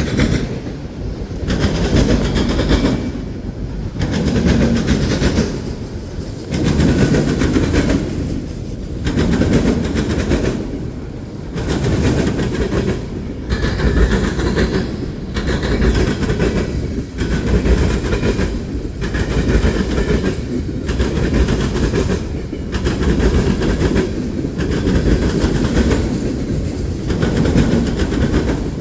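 Railroad cars rolling past, their wheels clacking over the rail joints in a steady repeating rhythm that swells about every two seconds.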